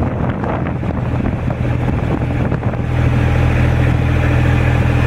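Steady low rumble of a running vehicle, with scattered knocks and rattles in the first few seconds.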